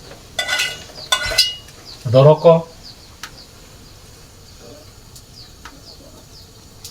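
Metal utensils and dishes clinking a few times, with short ringing taps, followed by a few faint isolated ticks.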